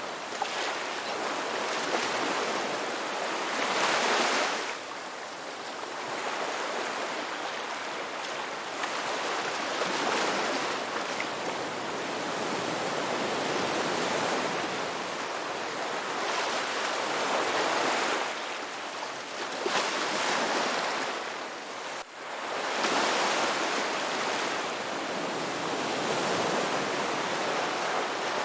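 Ocean waves breaking on a beach, the surf swelling and falling away every few seconds.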